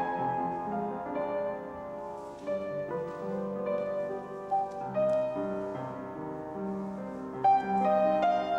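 Piano playing a slow piece of sustained notes and chords, with a louder chord struck about seven and a half seconds in.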